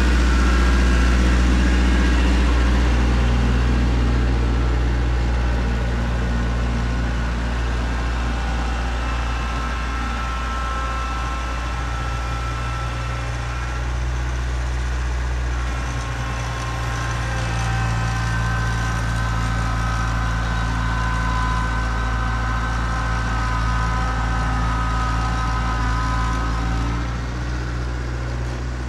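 A vehicle engine idling steadily, with a low, even hum and some held higher tones.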